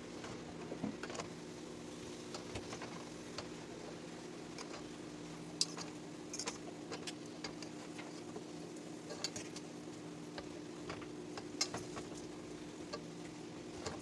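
Spoon and fork clinking and scraping against a pan while lo mein noodles are tossed and stirred, in scattered irregular clicks over a steady low hum.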